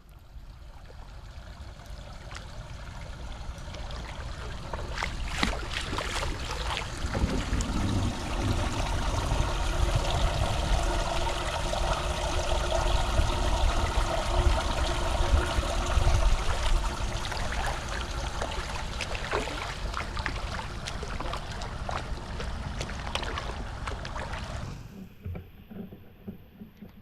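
Floodwater rushing into a storm drain as a steady, loud rush that builds over the first several seconds and drops off abruptly shortly before the end.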